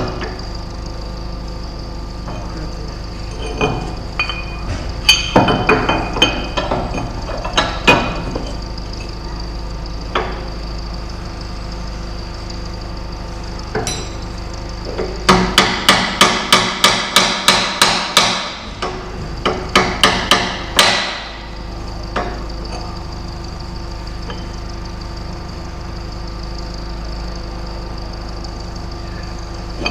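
Hammer striking steel plow brackets: a few separate blows, then a rapid run of about a dozen strikes at roughly four a second a little past halfway, and a few more ringing blows after it, over a steady background hum.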